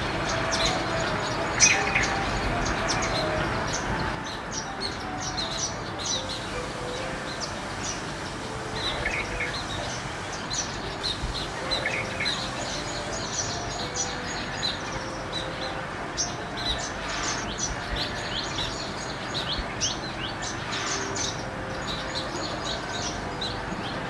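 Small birds chirping: many short, high chirps and tweets, scattered and overlapping, over a steady outdoor hiss.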